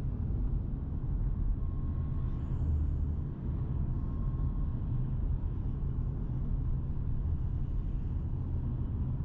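Steady low rumble of a vehicle, with no clear engine note rising or falling.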